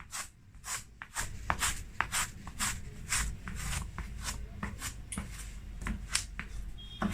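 Folded masking tape dabbed and rubbed again and again on carpet pile to lift cat fur, a rapid series of short rustling strokes, about three a second.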